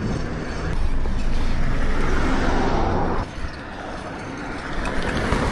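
Road traffic noise: a passing vehicle's steady rush swells, drops away suddenly about three seconds in, and rises again near the end.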